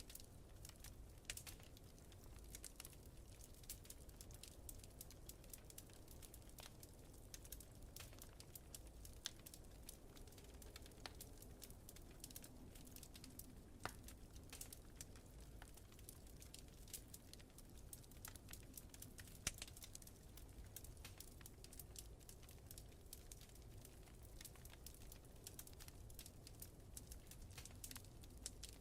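Wood fire crackling: a dense run of small pops and ticks, with a few sharper pops standing out, over a low steady rumble.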